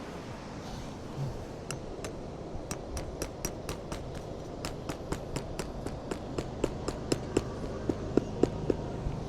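Tent stakes being hammered into the ground with the butt of a hatchet: a fast run of sharp strikes, about four a second, starting about two seconds in and getting louder toward the end. Wind blows steadily underneath.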